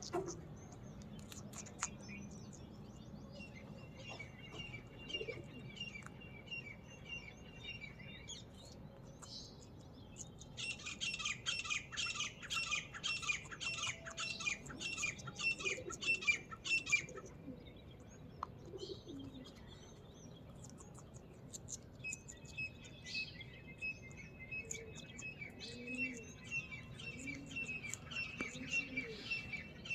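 Parrot chirping in runs of rapid, evenly repeated notes, with a louder, fuller run of chirps in the middle.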